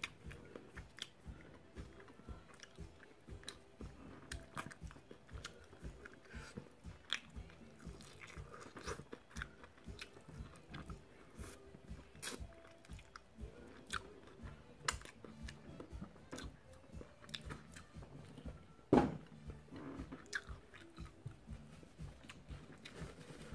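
A person chewing and biting fried chicken wings close to the microphone, with many short, irregular crunching and wet mouth clicks. There is a single louder knock about nineteen seconds in.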